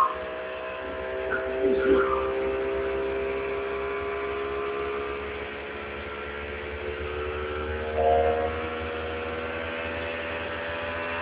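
Motorboat engine running steadily, a continuous droning hum.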